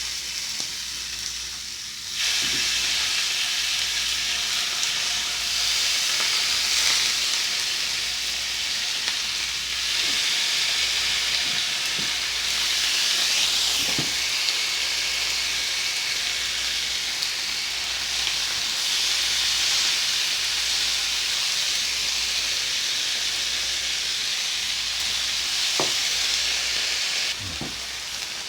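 Beef frying in a hot Korean BBQ pan, a steady sizzling hiss that gets louder about two seconds in and drops back near the end. A few faint short knocks.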